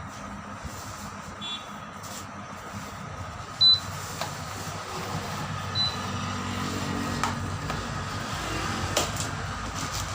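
Steady background of road vehicles running, with scattered clicks and knocks from work close by. A short, loud, high-pitched beep sounds about three and a half seconds in, and a fainter one about two seconds later.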